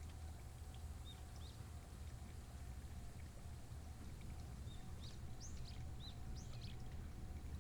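Small birds chirping in short, high calls, a few about a second in and a busier cluster near the end, over a faint steady low rumble.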